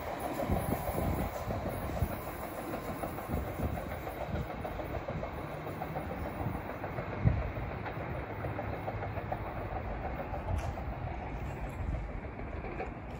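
SEPTA electric commuter train pulling away and receding, its wheels clattering over the rail joints in a steady rumble that slowly fades, with one louder knock about seven seconds in.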